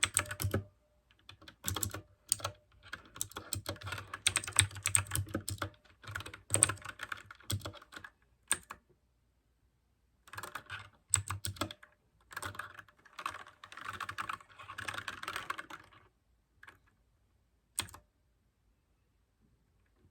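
Mechanical keyboard with clicky blue switches being typed on in quick runs of keystrokes broken by short pauses. The typing thins to a couple of single keystrokes and stops about two seconds before the end.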